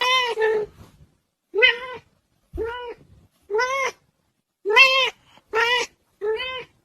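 A cat meowing over and over: seven short meows about a second apart, each rising and then falling in pitch.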